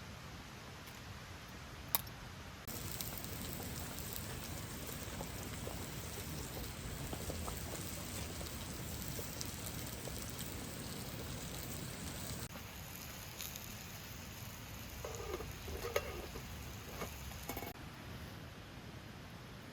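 Wood campfire crackling and hissing, with a sharp click about two seconds in and a few light clinks near the end.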